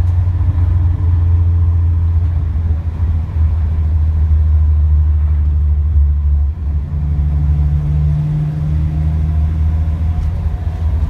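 Toyota Sunrader pickup on the move, heard from inside the cab: a steady low drone of engine and road noise, with a brief dip in level about six and a half seconds in.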